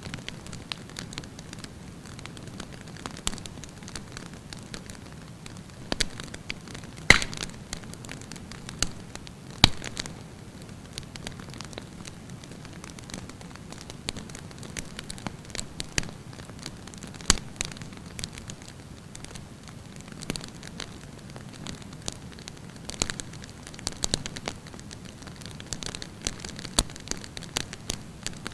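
Wood campfire burning with a steady low hiss and frequent sharp crackles and pops at irregular moments, the loudest pops about seven and ten seconds in.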